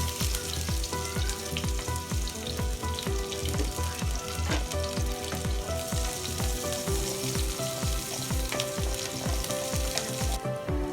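Shallots, garlic and chilies sautéing in hot cooking oil: a steady sizzle with light stirring, which thins out shortly before the end. Background music with a steady beat plays underneath.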